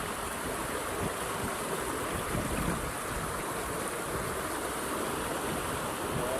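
Steady rush of fast-flowing flood water in a swollen river, with wind buffeting the microphone.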